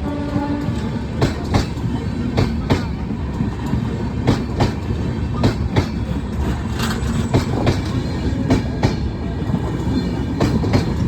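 Indian Railways train running on jointed track: a steady rumble with a clickety-clack of wheels striking rail joints, the clicks coming in quick pairs about a second apart.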